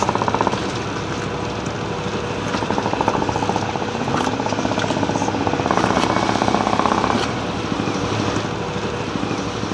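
Sailboat's inboard diesel engine running at low speed with a fast, even pulse, swelling louder twice as the boat is manoeuvred at the dock.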